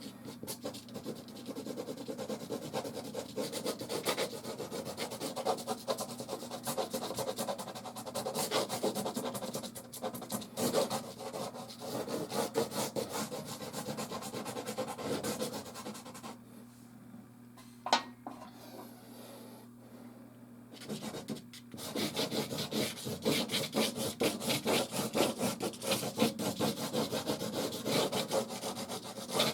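Soft pastel scraping and rubbing across a canvas in dense back-and-forth strokes. It eases off for a few seconds past the middle, with one sharp click, then comes back in faster, louder strokes near the end.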